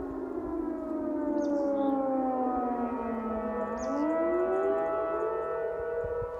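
Several outdoor warning sirens, mostly Thunderbolts, sounding together from near and far as overlapping wails. One winds down in pitch, and another winds up in a rising wail about four seconds in.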